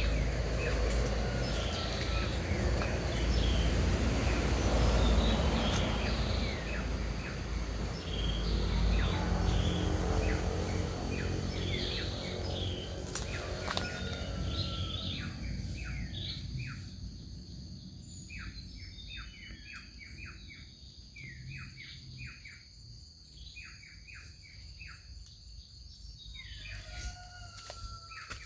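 Several birds chirping and calling, with many short, repeated chirps. A loud low rumble fills the first half and fades out about halfway through, leaving the chirps clearer.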